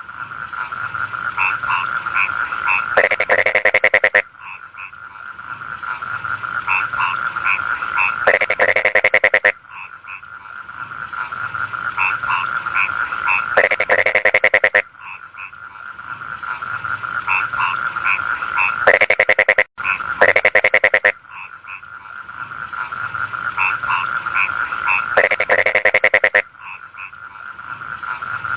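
Rice-field frogs croaking in chorus: a steady trilling drone with short repeated croaks. About every five seconds a loud, fast rattling call lasts about a second, then the chorus drops and builds again.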